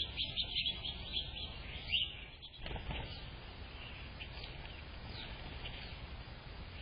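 Small songbirds chirping in quick, overlapping high notes, densest in the first two and a half seconds and then thinning out, over a steady low background rumble.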